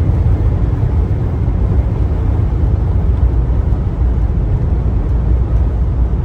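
1999 Chevrolet Blazer's 4.3-litre V6 running with a steady low rumble.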